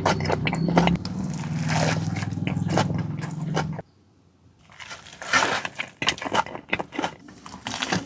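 Close-up eating sounds: biting into and chewing a McDonald's Maharaja Mac burger, with crisp crackling and squishy chewing noises. A low steady hum runs under the first half, and the sound drops out briefly about four seconds in before the chewing resumes.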